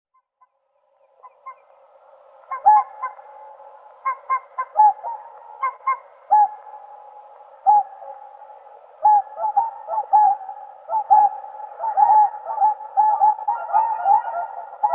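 Whooper swans calling: short, pitched honks that start about a second in and come faster and overlapping toward the end, as several birds call together.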